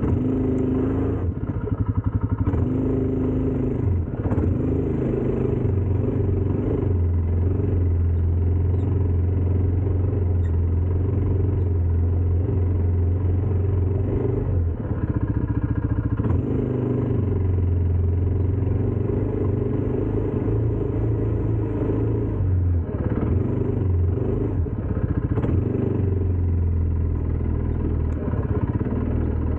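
ATV engine running with a steady low drone that dips and picks up again a few times.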